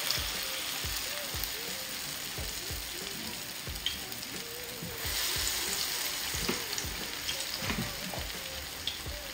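Akara (bean-batter fritters) deep-frying in a pan of oil: a steady sizzle with a few small pops, growing brighter about five seconds in.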